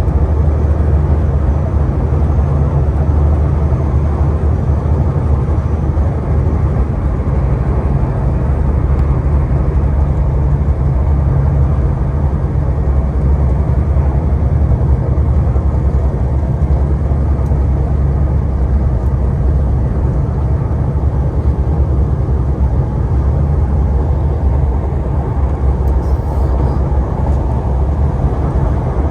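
MTR East Rail Line R-train electric multiple unit running at speed: a steady, loud, low rumble of wheels on rail and running gear that hardly changes throughout.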